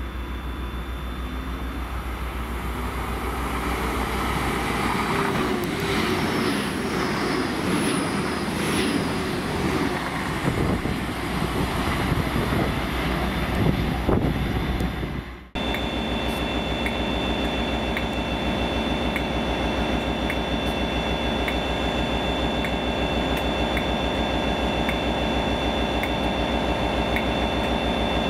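A GWR Intercity Express Train passes through the station, its running noise building and shifting, then cuts off abruptly. It is followed by the steady diesel engine note of a Class 66 locomotive on a rail head treatment train, with a high steady whine and faint ticks about once a second.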